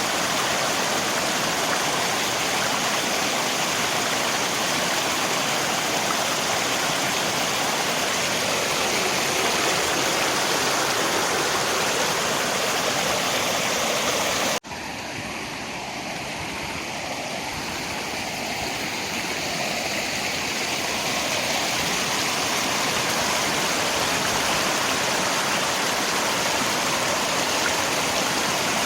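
Steady rushing of river water with rain. About halfway through, the sound cuts out for an instant at an edit, then comes back quieter and builds back up over several seconds.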